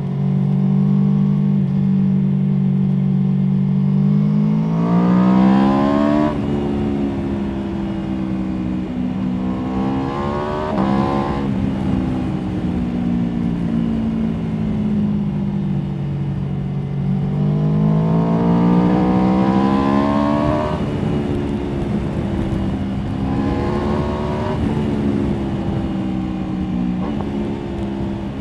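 Aprilia Tuono V4 motorcycle's V4 engine heard onboard: a steady note at first, then twice revving up hard through the gears, with quick drops in pitch at each upshift, and winding down in between as the bike slows.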